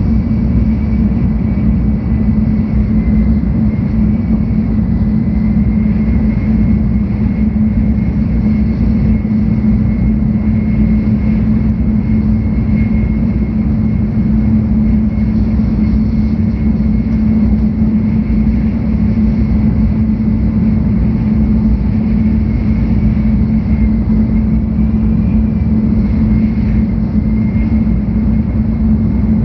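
Inside the passenger cabin of a 700 Series Shinkansen train running on the line: a steady rumble with a constant low hum and a faint high tone.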